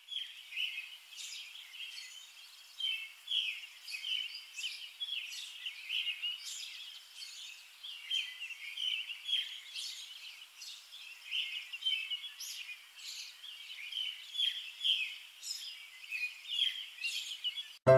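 Birds chirping: a steady, irregular run of short, high chirps over a faint hiss, with nothing low underneath.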